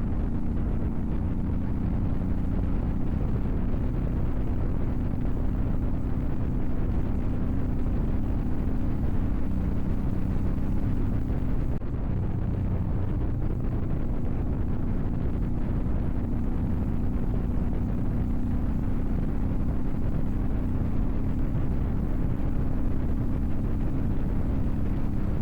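Motorcycle engine running steadily while riding along: a low, even engine note with a constant noisy rush over it.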